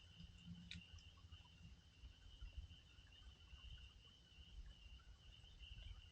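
Faint, steady high trilling of insects, with a single faint crackle from the wood fire a little under a second in.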